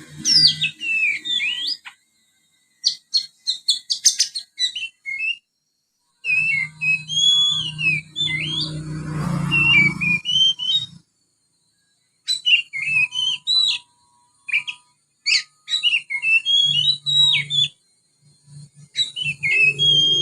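Young oriental magpie-robin singing: bursts of rapid twittering and sweeping whistled phrases with mimicked sparrow chirps woven in, about six bursts broken by short pauses.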